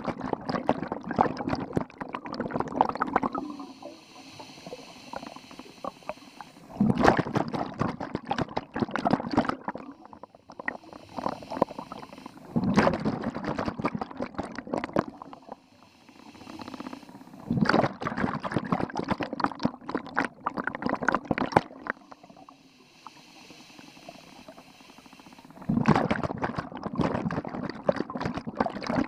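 Scuba diver breathing through a regulator underwater: about five bursts of bubbling exhaust, each lasting a few seconds, every five to six seconds, with a quieter hiss of inhalation between them.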